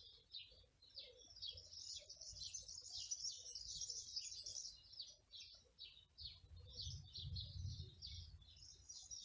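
Small songbirds chirping and singing continuously, a dense stream of quick, short, high notes. Underneath is a faint low rumble that grows stronger about six seconds in and eases off near the end.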